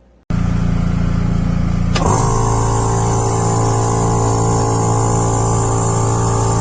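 Electric air compressor running loud and steady. A click about two seconds in, as its motor hum settles into a steady tone.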